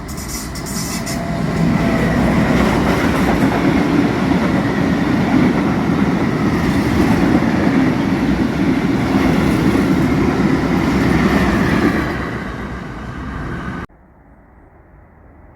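Freight train hauled by an E494 electric locomotive passing close by: a loud, steady rumble and clatter of wheels on rail that builds over the first two seconds and eases off near the end. It cuts off abruptly just before the end, leaving a much quieter background.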